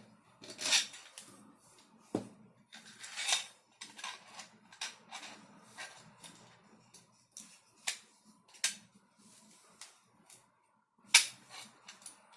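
3D-printed plastic gun parts handled and fitted together: an irregular run of sharp clicks, taps and short scrapes, the sharpest snap about eleven seconds in.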